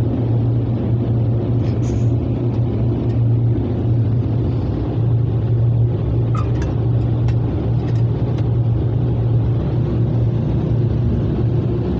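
Steady low-pitched mechanical hum inside an automatic car wash bay, heard from inside a car, with a few faint ticks.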